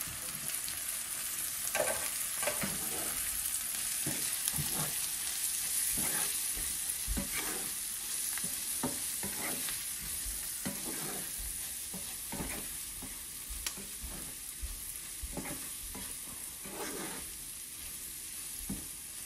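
Chopped onion, garlic and ginger frying in hot oil in a pan with freshly added ground spices, sizzling steadily. A wooden spatula stirs and scrapes through the pan in short, irregular strokes, about one or two a second, as the dry spices fry into the onion base.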